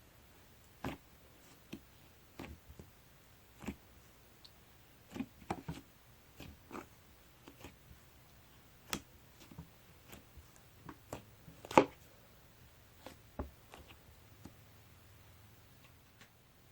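Slime being squeezed and poked by hand, making irregular sticky clicks and small air-bubble pops, with one louder pop about twelve seconds in.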